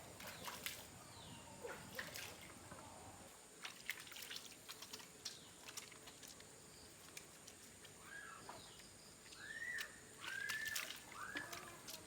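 Faint scattered clicks and taps, then four short bird chirps that each rise and fall, starting about eight seconds in.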